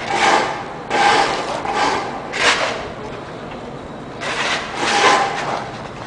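About six rough scraping strokes, each half a second to a second long, with a pause of about a second past the middle.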